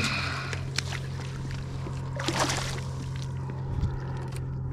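Water moving and splashing around a kayak over a steady low hum, with one louder swish about two seconds in.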